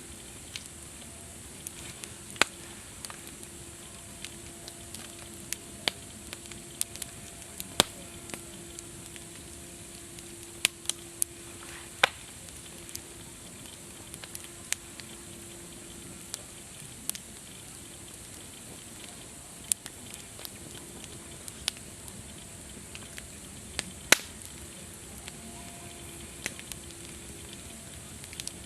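Wood campfire crackling: irregular sharp pops and snaps, a few of them loud, over a steady hiss, with a faint steady tone underneath.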